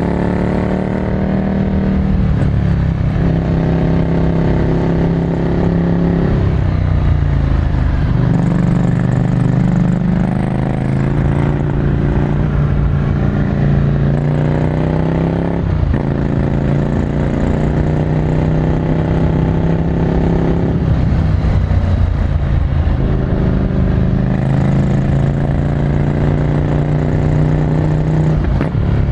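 Ducati Scrambler Desert Sled's air-cooled L-twin running through a full Termignoni exhaust, heard onboard while riding. The engine note climbs under throttle and drops sharply about five times as the rider shifts or rolls off, then pulls again.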